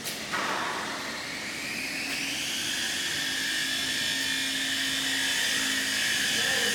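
An electric motor starts with a click and spins up, its whine rising over about two seconds and then holding steady.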